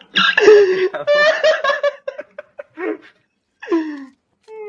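A person laughing loudly in a burst of high, pitched cackles, followed by a few shorter laughs. A steady held tone starts near the end.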